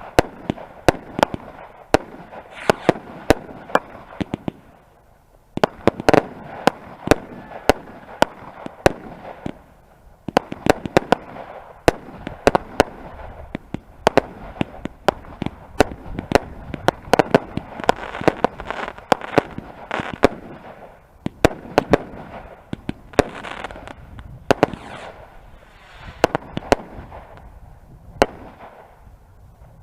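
Fireworks going off: dense volleys of sharp bangs and crackles over a fizzing hiss, coming in bursts with short lulls between them.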